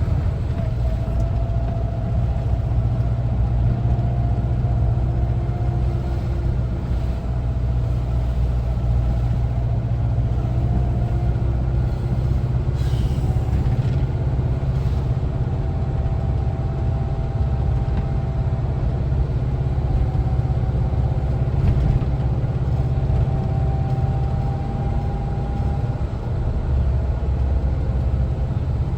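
The air-cooled Type 4 flat-four engine of a 1974 Volkswagen Westfalia camper bus running steadily as the van is driven, a constant low rumble with a faint engine note that drifts slightly in pitch.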